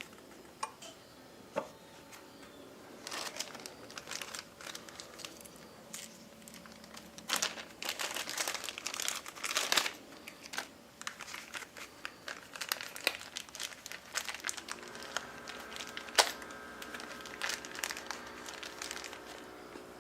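Handling noise: crinkling and rustling with many scattered sharp clicks. A steady hum made up of several tones joins about fifteen seconds in.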